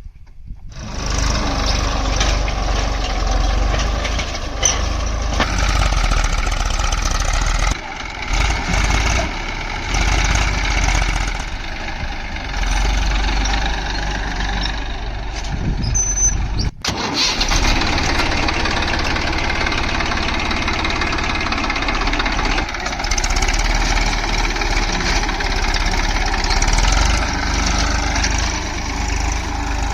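Massey Ferguson 241 DI tractor's three-cylinder diesel engine running steadily and loudly, with a brief break about seventeen seconds in.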